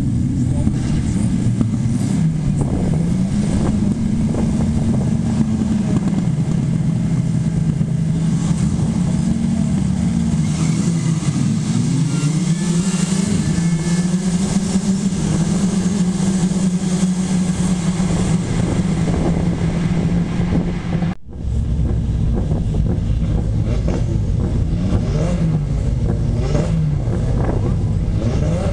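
Racing car engines running hard on a circuit, the engine note rising and falling as cars pass and change gear. There is a sudden brief break about three-quarters of the way through, after which the engine sound carries on at a different pitch.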